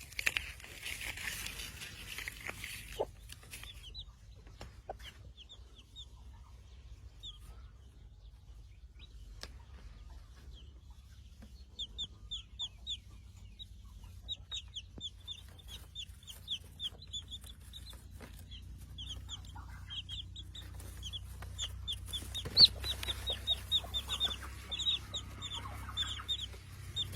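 Chicks peeping in rapid, short, high-pitched notes, starting about twelve seconds in and coming more continuously near the end.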